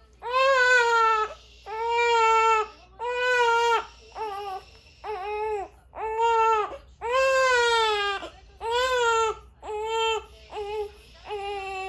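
Newborn baby crying: a run of about a dozen high cries, each about a second long with short breaths between, growing shorter and weaker toward the end.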